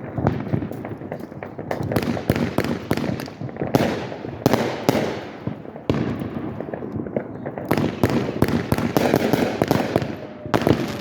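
Aerial fireworks going off in rapid, overlapping volleys: dense clusters of sharp cracks and booms, each echoing and rumbling away, with short lulls around two, six and ten seconds in.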